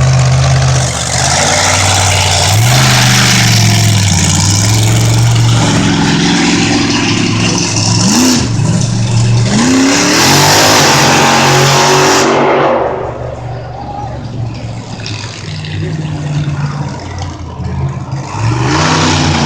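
Monster truck engine running loud and revving, its pitch swinging up and down several times. About twelve seconds in it drops to a lower, quieter run, then revs up again near the end.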